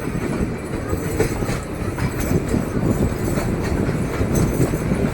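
Narrow-gauge Kalka–Shimla toy train running on the track: a steady rumble with the clatter of wheels on the rails.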